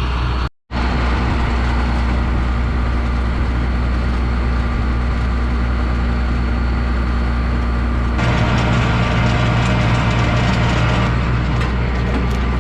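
Combine harvester's diesel engine running steadily with a deep hum. It gets louder and fuller about eight seconds in, and there is a brief break in the sound about half a second in.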